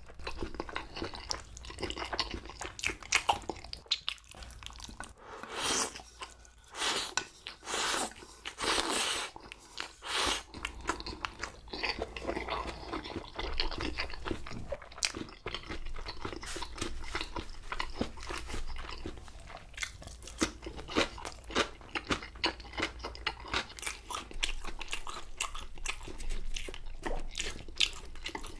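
Close-miked eating of battered, deep-fried sweet and sour pork: crisp crunching bites and chewing throughout, heaviest a few seconds in.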